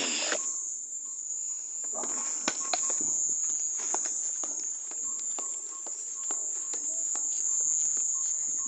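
Crickets trilling steadily at night, with scattered knocks and rustling of people moving about close by.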